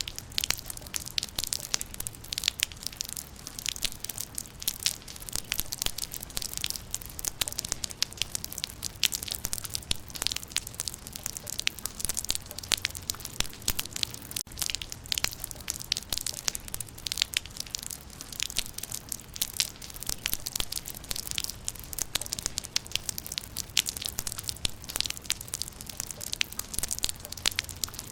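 Rain falling on leaves: a steady, dense patter of many small, sharp drop impacts.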